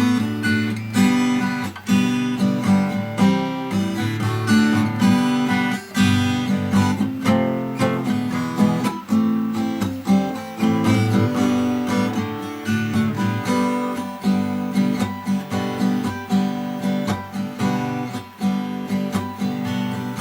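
Solo acoustic guitar playing a steady run of strummed and picked chords, the instrumental introduction to a song.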